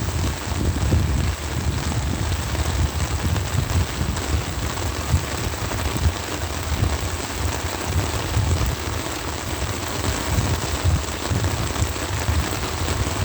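Heavy downpour pattering on an umbrella overhead, a dense steady hiss of drops with a strong uneven low rumble beneath.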